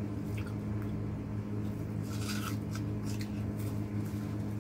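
Faint wet chewing of juicy watermelon, with a few soft mouth clicks around two seconds in, over a steady low hum.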